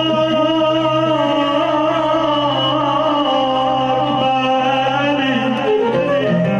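Amplified Arabic wedding music: a singer holds one long, slightly wavering note that ends about five seconds in, over a steady low drone from the accompaniment.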